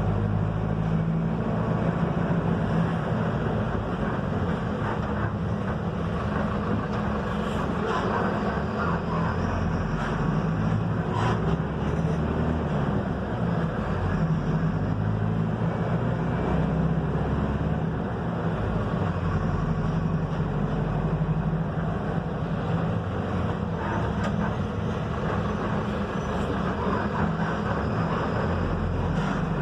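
Mercedes-Benz OF-1721 BlueTec 5 bus diesel engine running steadily under way over road noise. Its pitch shifts up and down in steps as engine speed changes, with a few brief rattles.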